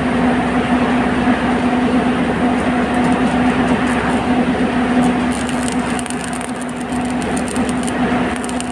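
Electric welding machine humming steadily over a dense noise, with crackling coming in from about halfway through.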